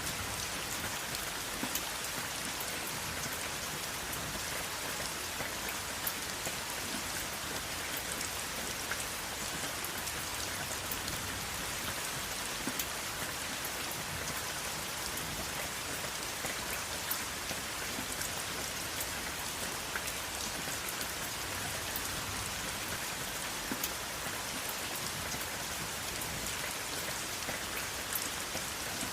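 Steady rain falling, a constant hiss with many small individual drop ticks scattered throughout and no thunder.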